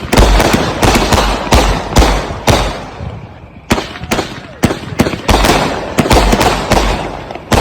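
Consumer aerial firework cakes firing in rapid succession: a string of sharp bangs, about three a second, with a short break about three seconds in before the shots resume.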